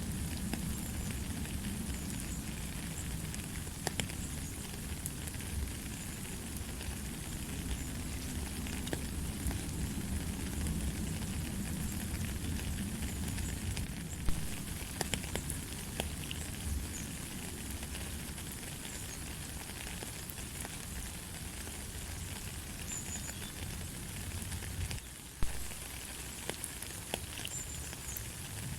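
Steady light rain, a dense patter of drops with many small scattered ticks over a low rumble; two drops land louder and sharper, about halfway through and near the end.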